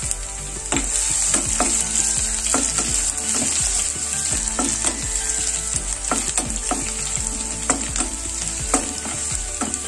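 Crushed garlic cloves sizzling steadily in hot oil with a tempering of mustard seeds, chana dal, curry leaves and dried red chillies. A wooden spatula stirs, with taps and scrapes against the pan a few times a second.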